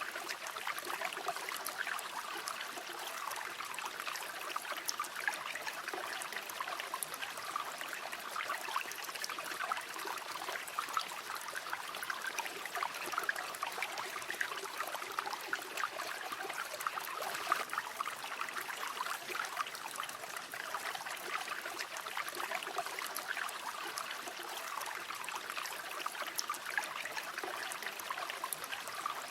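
A river flowing steadily, its water babbling and splashing in a constant, even rush without pause.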